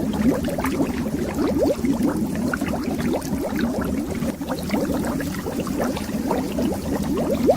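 A steady stream of bubbles underwater, heard as a dense, continuous run of quick upward-gliding blips over a low watery rumble.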